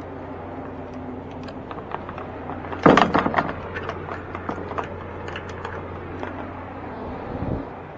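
A loud metal clank about three seconds in, followed by a couple of seconds of rattling and clicking, over a steady low idle of a truck engine.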